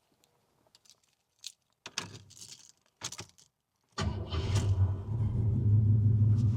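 Car engine starting: a few faint clicks and two short rattles, then about four seconds in the engine catches at once and settles into a steady, low idle.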